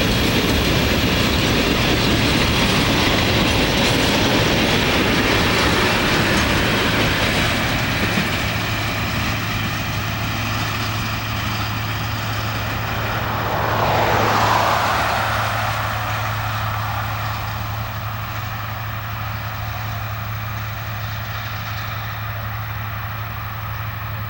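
Freight train of grain hopper cars rolling past, the wheels clattering over the rail joints; the sound eases off in the second half, with a brief swell about halfway through.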